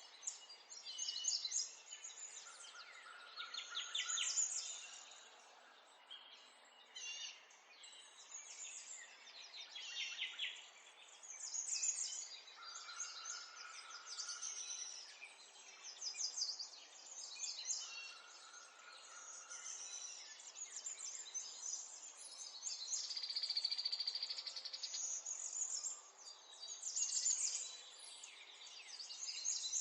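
Several songbirds singing at once: overlapping chirps and rapid chittering trills that swell and fade every few seconds, with a lower held note that comes three times.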